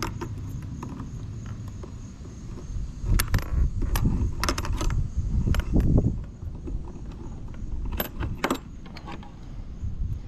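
Handling noise in a kayak: scattered sharp metallic clinks and rattles, with knocks and low rumbling, as a just-caught crappie is put away with the rest of the catch.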